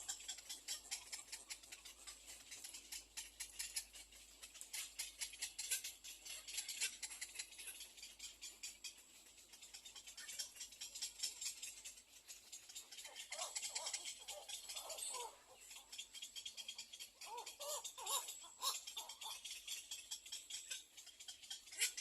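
Little egret chicks in the nest making a rapid, dry clicking rattle, with two short runs of squeaky gliding calls in the second half.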